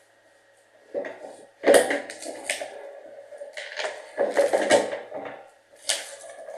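Objects being handled and set down: several bursts of knocks, clatter and rustling, the loudest about two seconds in and another cluster in the middle, over a faint steady hum.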